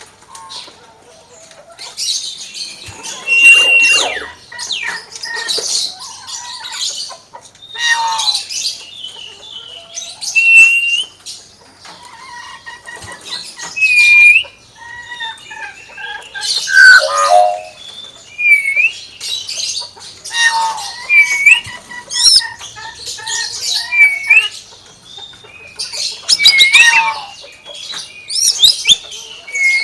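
Common hill myna calling over and over: harsh squawks mixed with short whistled notes that rise and fall, each call a second or so long and coming every one to three seconds.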